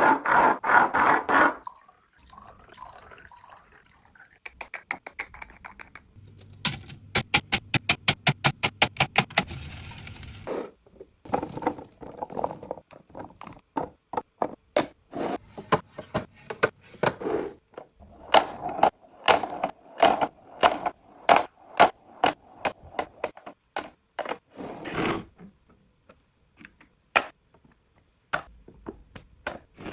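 Items being put into a fridge: repeated clacks, taps and thunks of containers set on shelves, with some scraping, including a run of quick even taps.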